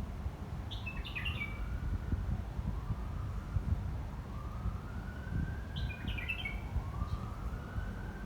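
Wind buffeting the microphone as a steady low rumble, with a faint siren wailing slowly up and down. A bird chirps in two short bursts, about a second in and again about six seconds in.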